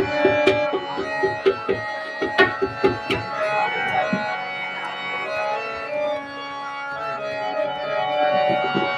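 Bhajan accompaniment with no singing: a harmonium plays a melody over quick hand-drum strokes. The drumming drops out about three seconds in, leaving the harmonium alone, and comes back near the end.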